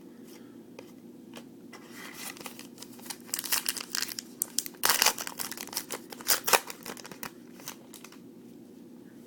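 Foil wrapper of a trading-card pack crinkling and tearing as it is opened: a run of crackles lasting several seconds in the middle, sharpest about halfway through.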